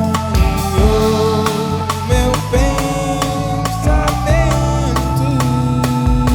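Band music: a drum-kit beat under sustained keyboard and synthesizer chords, with guitar, and a singing voice gliding in places.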